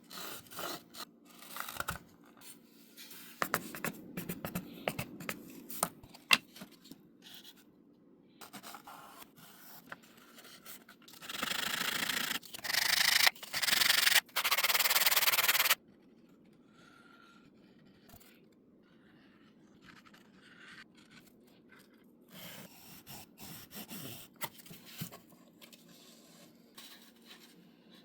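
Hand work on model airplane parts: scattered rubbing, scraping and light clicks, with a louder, scratchy stretch in the middle that stops abruptly.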